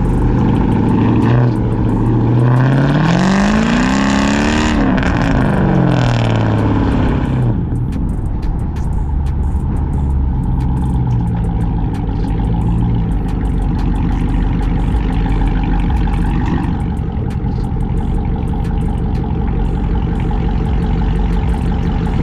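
Cammed, catless, straight-piped Chrysler 300C HEMI V8 exhaust revving up and back down a few seconds in, then running steadily at a low, even pitch.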